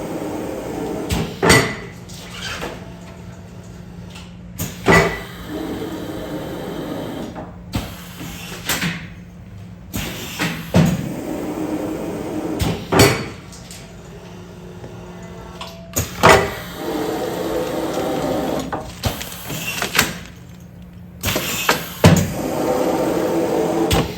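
Commercial food-container sealing machine working through repeated sealing cycles: sharp clunks and knocks every two to three seconds over a steady hum.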